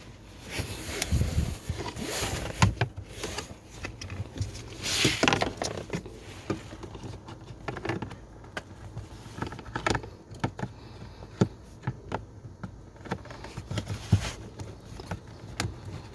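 Handling noise as a new pleated cabin air filter is pushed into its housing in a 2014 Chevrolet Silverado and the plastic access cover is refitted: scattered sharp clicks and knocks of plastic with short bursts of rustling.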